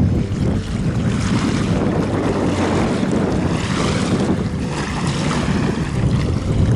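Wind buffeting the microphone in a steady low rumble, with waves lapping.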